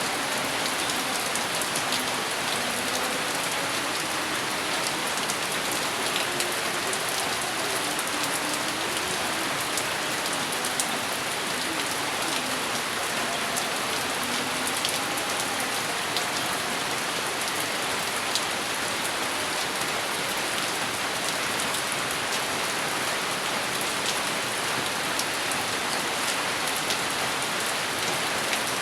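Steady rain falling, with many small drop ticks through it at an even loudness.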